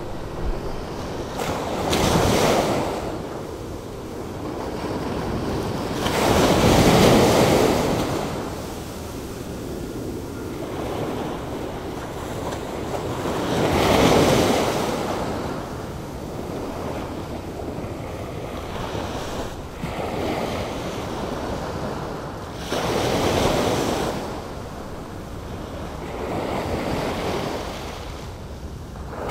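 Atlantic Ocean surf, stirred up by a hurricane, with waves breaking and washing in at uneven intervals. The waves swell and fade over a few seconds each; the loudest come about seven and fourteen seconds in.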